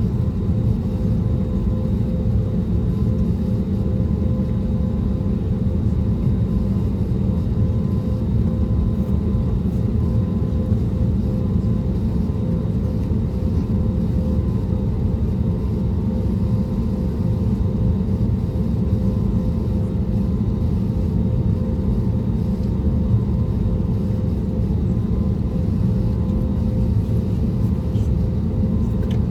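Steady cabin noise inside an Airbus A320neo: a constant low rumble from its CFM LEAP-1A26 engines and the airflow, with a thin steady hum above it.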